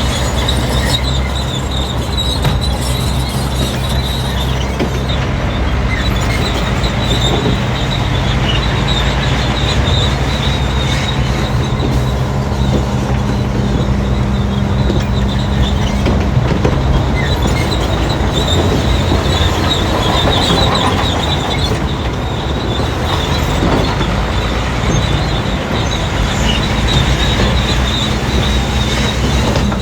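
Crawler bulldozer working: its diesel engine runs steadily under load while the steel tracks give a continuous high squeal and clanking.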